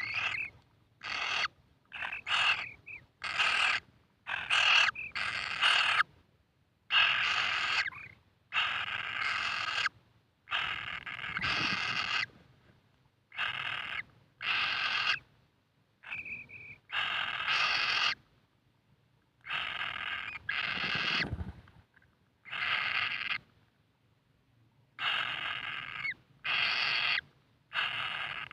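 Kingfisher chick's harsh, rasping calls, repeated over and over in short bursts with brief pauses. One short clear whistle comes about halfway through.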